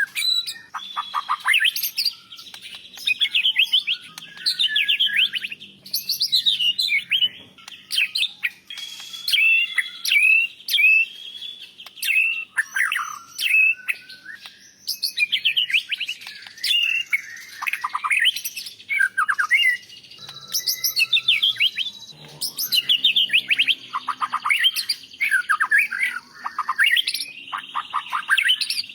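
White-rumped shama (murai batu) singing a long, varied song of rapid whistled sweeps, trills and chattering notes, delivered in phrases of a few seconds with short pauses between them.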